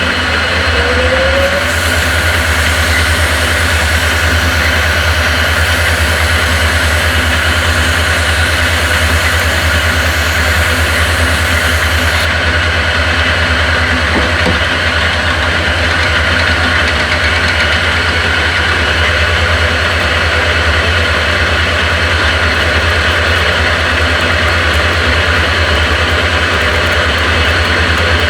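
A machine running steadily with a loud low hum and a few steady higher tones; a high hiss joins in from about two seconds in to about twelve seconds.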